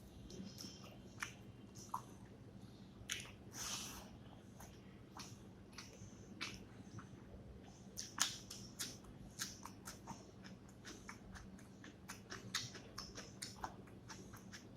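Close-miked chewing and wet mouth smacks of someone eating fish curry with rice: many short, irregular clicks and smacks, with a longer noisy burst about four seconds in.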